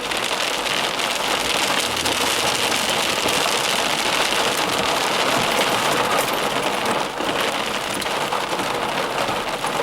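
Heavy rain falling steadily during a monsoon thunderstorm, an even, unbroken hiss.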